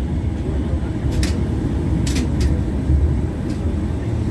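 LVS-86K articulated tram running between stops, heard from inside the passenger saloon: a steady low rumble of wheels on rail and motors, with a few short sharp clicks or squeaks about a second and two seconds in.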